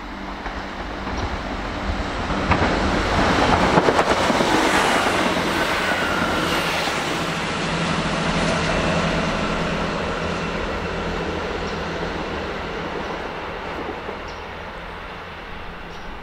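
A Class 165/166 Networker Turbo diesel multiple unit passing at speed, with engine drone and wheels on the rails. The sound builds to a peak about four seconds in, then fades steadily as the train draws away.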